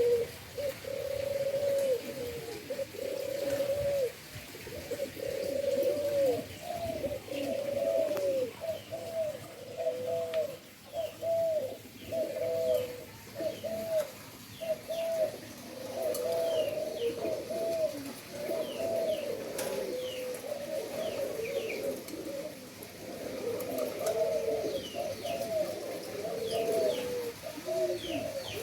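Several doves cooing continuously, their short arched coos overlapping, with faint high chirps from small birds over the top.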